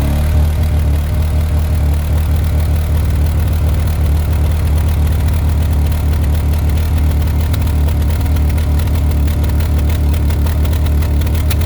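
An ATV engine running steadily at an even speed, its pitch settling after a short rise just before. The machine is stuck in limp mode, which the riders put down to a dead battery.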